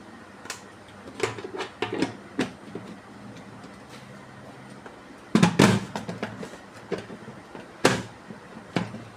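Scattered knocks and clatter of hard kitchen items being handled and set down: a few light knocks, then a louder cluster of clunks past the middle and another sharp knock near the end.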